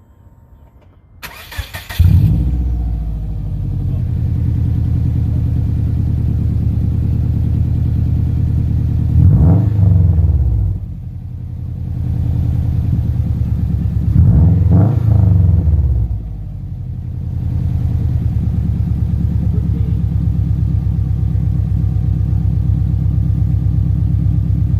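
2007 Subaru Legacy GT spec.B's turbocharged flat-four starting through a muffler-delete exhaust: the starter cranks briefly, the engine catches with a loud burst, then idles with a deep rumble. Twice it is revved, the pitch rising and falling, before it settles back to idle; the exhaust has a leak, which makes it sound like an angry pig.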